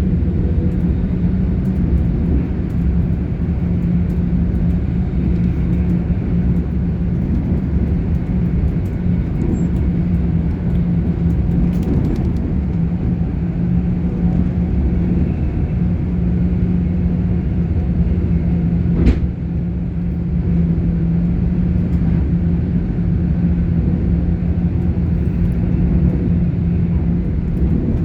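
Running noise of a GWR Class 800 IET heard from inside the passenger carriage: a steady low rumble of the wheels on the rails with a constant hum. A single sharp knock comes about two-thirds of the way through.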